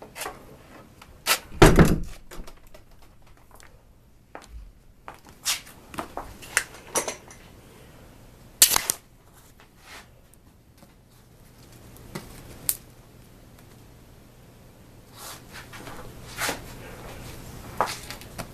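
Scattered knocks and clicks of household handling, with one heavier thump about two seconds in and a sharp click near the middle.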